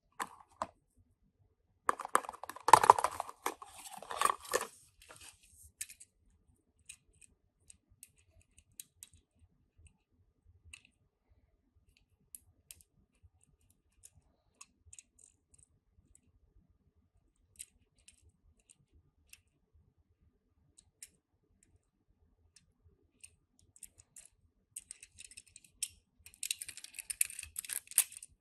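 Small clicks and rattles of Tomica die-cast toy cars and their plastic being handled. A busy flurry of clicking comes about two to five seconds in, then scattered single clicks, and a dense high rattle near the end.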